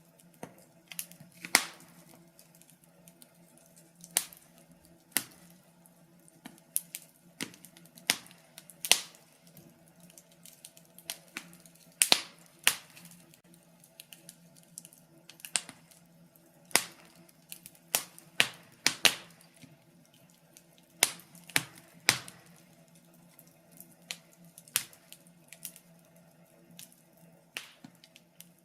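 Wood fire crackling in a fireplace: irregular sharp pops and snaps from the burning logs, several a second at times, some much louder than others, over a faint steady hum.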